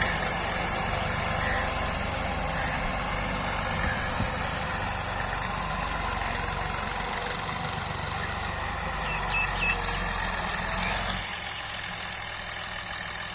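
Tractor's diesel engine running steadily with a low rumble; the sound drops a little about eleven seconds in.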